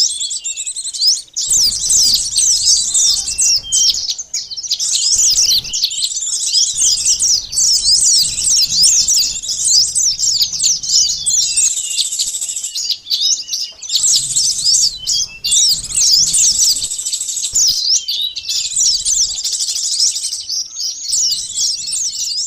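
Dense, continuous twittering of many small birds: a looped lure recording of sunbirds, with rapid, overlapping high chirps and a few brief breaks.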